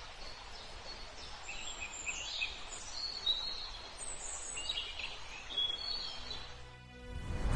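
Birds chirping and calling in short high notes over a steady outdoor background hiss, with music starting to fade in near the end.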